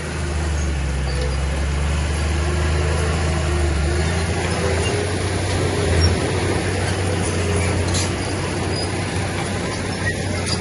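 Diesel engine of heavy earthmoving machinery running steadily with a low drone, with a brief louder moment about six seconds in.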